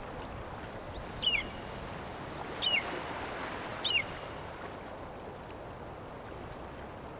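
A bird calling three times, about a second and a half apart. Each call is short and high, dropping in pitch, over a steady background hiss.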